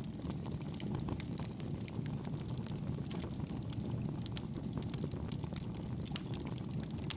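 Fire burning in a fireplace: a steady low rumble of flames with frequent small crackles and pops throughout.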